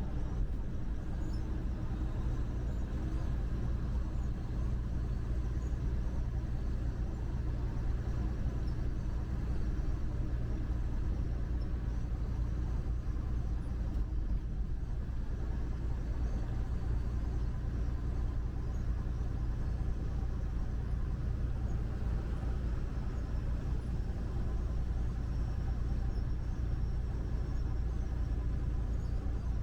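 Steady low drone of a truck's engine and road noise while driving, heard from inside the cab.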